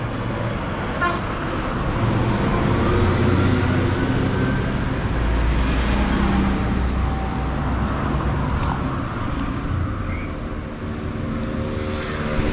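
Road traffic: motor vehicle engines running and passing, with a steady rumble and engine tones that rise and fall.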